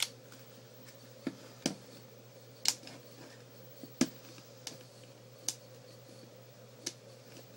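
A series of about seven sharp, irregularly spaced clicks from a CO2 airsoft pistol, well below the loudness of its shots.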